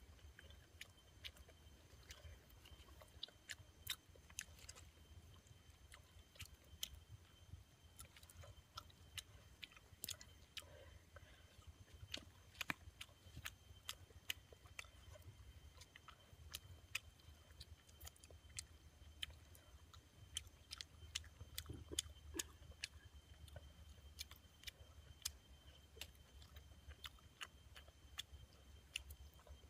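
A person eating with his hands: irregular sharp clicks and smacks of chewing and picking at food, over a faint low steady hum.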